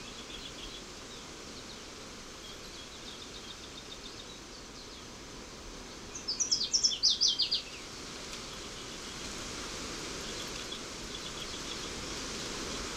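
Faint steady field ambience with scattered high chirps. About six seconds in, a bird sings a rapid run of high, falling notes for under two seconds.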